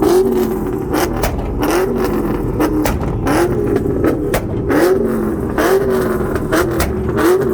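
Car engine revved in quick repeated bursts, about one a second, each rising in pitch, mixed with many sharp exhaust pops and bangs, as in two-stepping on a launch-control rev limiter.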